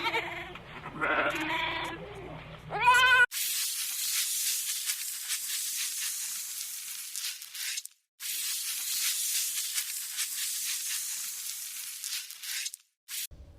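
Goats or sheep bleating, several pitched calls ending in a loud rising bleat about three seconds in. Then a steady high hiss-like noise runs for about ten seconds, breaks briefly about eight seconds in, and cuts off abruptly just before the end.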